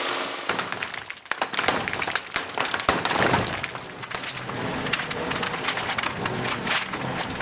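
Demolition noise: a rapid, irregular run of cracks, knocks and breaking, like debris being smashed and falling.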